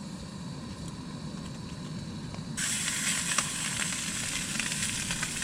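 Ribeye steak sizzling in a pan on a camping stove. The loud sizzle comes in suddenly about halfway through, over a steady low rumble.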